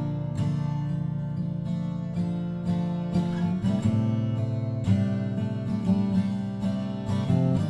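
Freshly restrung Seagull S12 Coastline 12-string acoustic guitar being played: chords strummed and left to ring, with a new stroke every second or so.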